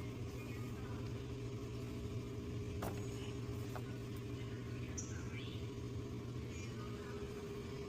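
Car engine idling steadily, with a couple of light clicks about three seconds in.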